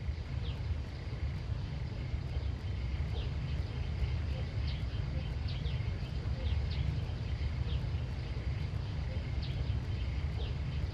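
Outdoor ambience: short high chirps about once a second over a steady faint high drone and a strong low rumble.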